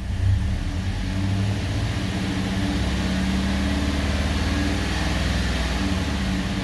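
Truck engine with a freshly swapped camshaft, heard from inside the cab, held at a little throttle for several seconds and then easing back toward idle near the end.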